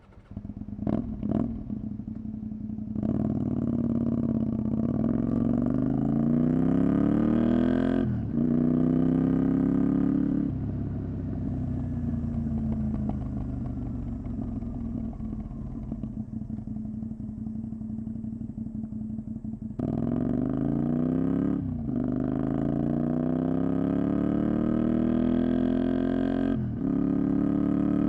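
Honda VTR250's 250 cc V-twin engine, through a Moriwaki Engineering exhaust, idling briefly and then accelerating, its pitch climbing through the gears with short breaks at each upshift. From about ten to twenty seconds in it falls away as the bike slows off the throttle, then it pulls hard through the gears again.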